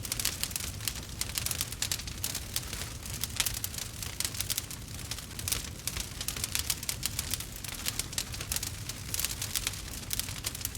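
Burning wood crackling and popping: many sharp, irregular snaps a second over a steady low rumble.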